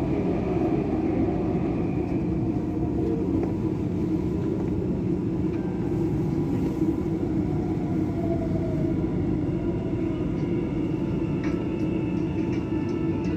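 Dubai Metro train heard from inside the carriage: a steady rolling rumble of the train in motion, with a faint whine falling in pitch about eight seconds in.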